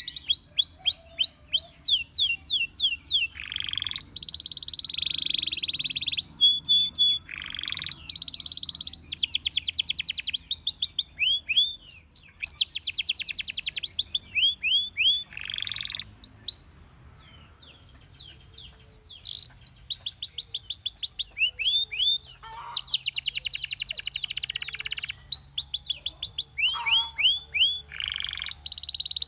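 Belgian canary singing: long runs of very fast trilled notes, mixed with short held whistles and quick rising and falling notes. The song stops for about three seconds past the middle, then carries on.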